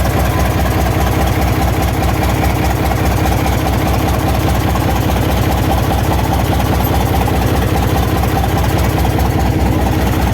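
Isuzu 12PC1 diesel engine idling steadily with an even, rhythmic low pulse.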